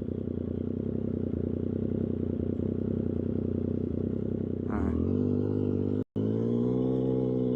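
Triumph Street Triple 765RS inline three-cylinder engine through an SC-Project exhaust, idling with an even pulsing beat, then rising in pitch about four and a half seconds in as the bike pulls away and holding a steady higher note. The sound cuts out for a moment about six seconds in.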